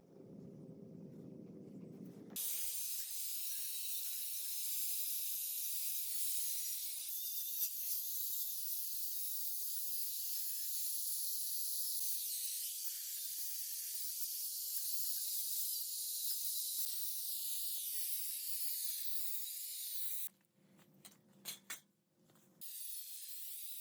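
Compressed-air gun hissing in long, steady blasts. It stops for about two seconds near the end, leaving a low hum and a few clicks, then starts again.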